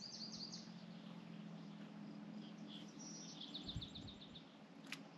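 A songbird singing: two quick phrases of short, high notes, one at the start and another about three seconds in, over a faint steady low hum. A single sharp click sounds near the end.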